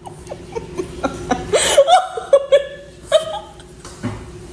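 A person laughing and chuckling, with a faint steady hum underneath.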